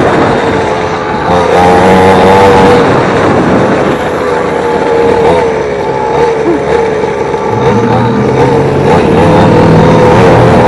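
Small 50cc two-stroke mini dirt bike engine running hard under a rider, its pitch wavering up and down with the throttle. The rider is still trying to get its fuel mixture right, and the engine is not running flawlessly.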